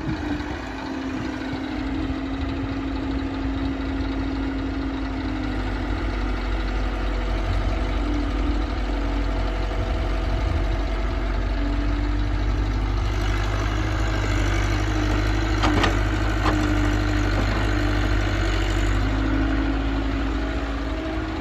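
Diesel engines of the earth-moving machinery running steadily at low speed. There are two short sharp knocks about three-quarters of the way through.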